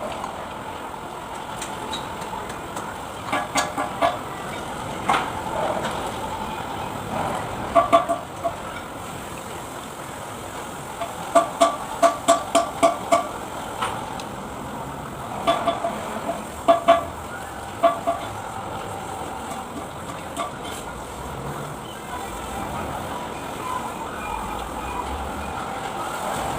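Short, ringing metallic taps in several bursts, about four a second, with the longest run of about eight strikes near the middle, over a steady low background hum.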